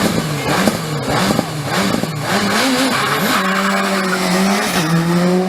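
Rally car engine revving hard under full throttle. Its note rises and falls several times with gear changes and throttle lifts, then holds a steady high pitch from about halfway on, with one short dip near the end.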